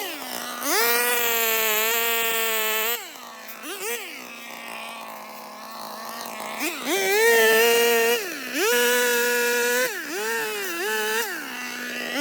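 Small petrol engine of a handheld cutting tool revving up to full throttle and dropping back to idle several times. Between the long runs it gives a few short quick blips of the throttle.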